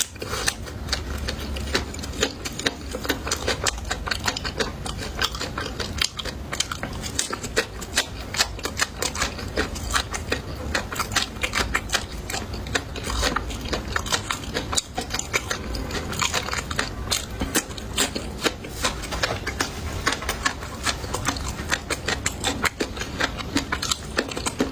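Someone chewing crisp fried food close to the microphone: a dense, irregular run of crackling crunches that goes on without a break.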